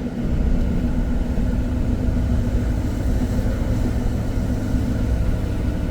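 Car running, heard from inside the cabin: a steady low rumble with a constant hum.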